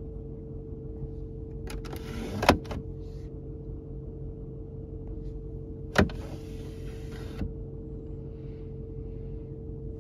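Inside a car cabin, two short mechanical whirs about three and a half seconds apart, each with a sharp click, over a steady hum.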